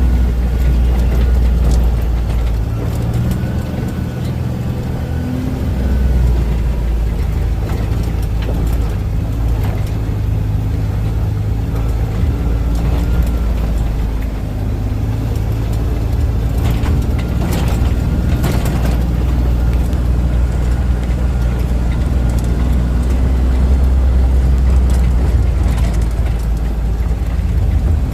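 Utility task vehicle's (UTV's) engine running as it drives, with a steady low rumble and an engine note that rises and falls; a few knocks or rattles here and there.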